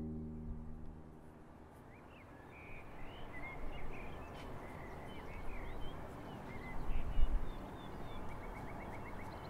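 Music fades out, then outdoor ambience: a steady hiss of background noise with small birds chirping on and off, and a brief low rumble about seven seconds in.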